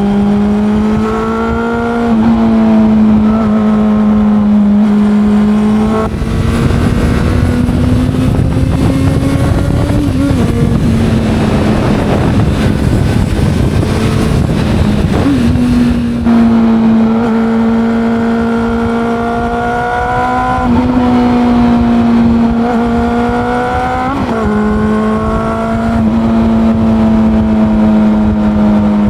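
Honda CB400 Super Four's inline-four engine running under way, a steady engine note that rises and dips slightly with throttle changes every few seconds. Through the middle of the stretch the engine note fades under a loud rushing noise for about ten seconds, then comes back steady.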